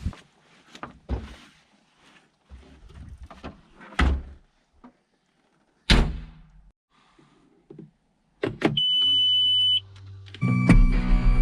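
A series of heavy thunks and sharp cracks, spaced irregularly: big rounds of firewood being split and knocked about by an Eastonmade SS524 skid steer splitter. A short steady high tone sounds about nine seconds in, and near the end the skid steer's engine comes in running steadily.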